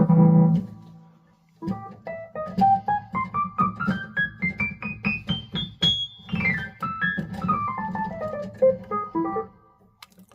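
Keyboard solo: a held chord dies away, then a quick run of single notes climbs steadily for about four seconds and steps back down over a sustained low note, stopping shortly before the end.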